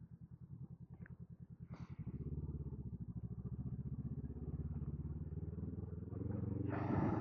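Honda scrambler motorcycle engine running with an even, rapid pulse. It is soft at first and gets louder about two seconds in as the throttle opens and the bike pulls along. A short hissing burst comes near the end.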